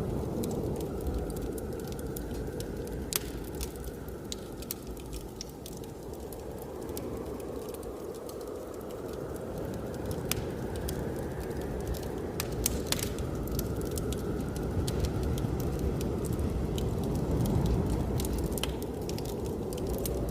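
Wood fire crackling with scattered sharp pops, over a steady low rush of blizzard wind with a faint whistle that slowly rises and falls.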